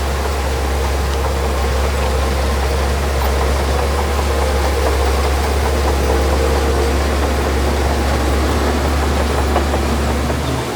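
Diesel engine of heavy earthmoving machinery running steadily with a deep, constant low rumble and a noisy wash of mechanical sound above it.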